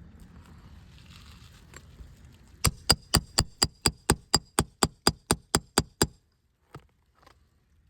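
A roofing hammer tapping an asphalt roof shingle about fifteen times in quick, even succession, about four light strikes a second with a short metallic ring, then one more single tap. The tapping is a test for granule loss on a brittle shingle.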